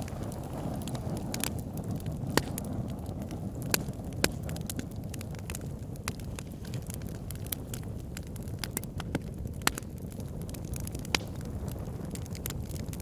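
Wood fire burning in a fireplace: a steady low rush of flames with irregular sharp crackles and pops, a few louder snaps standing out.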